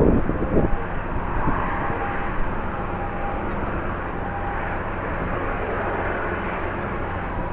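Jet airliner engines running, a steady rushing noise with a faint whine that comes and goes.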